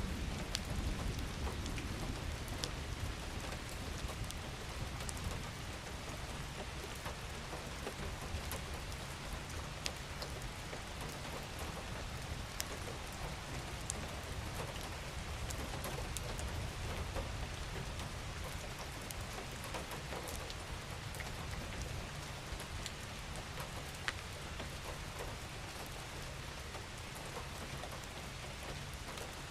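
Steady rain falling, an even hiss with scattered individual drop ticks and a low rumble underneath.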